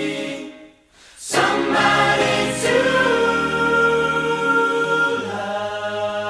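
Music: a choir singing held chords in close harmony, breaking off for a moment about a second in before coming back in.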